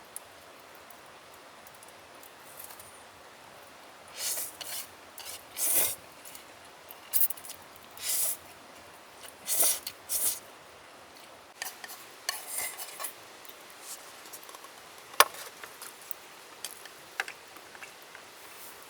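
Camp cookware and utensils being handled: a string of short scrapes and rustles, with one sharp click about fifteen seconds in.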